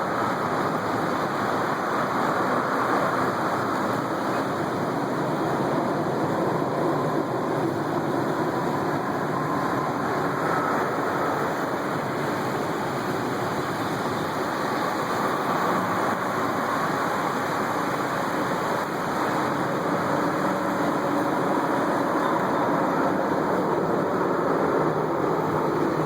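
Steady engine drone of the moving vehicle carrying the recorder: an even rumble with a faint hum that drifts slightly in pitch.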